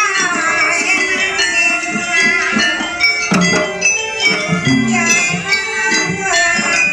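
Jaranan dance music from a live Javanese gamelan-style ensemble: a steady rhythm of drum and metal-percussion strokes with jingling bells, and a melody line that slides up and down in pitch in the first second.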